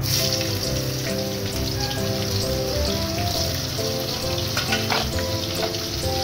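Sliced bitter gourd sizzling as it fries in hot oil in a wok. The sizzle starts abruptly as the slices go in and then holds steady, with background music underneath.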